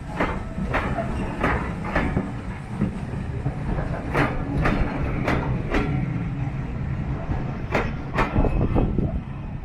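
Railway carriage running along the track: a steady low rumble with the clickety-clack of its wheels over the rail joints, the clicks coming in pairs about half a second apart.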